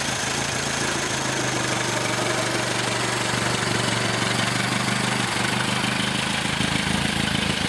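Rebuilt 1925 Ford Model T four-cylinder engine running steadily as the rolling chassis pulls away under its own power, a little louder about three seconds in.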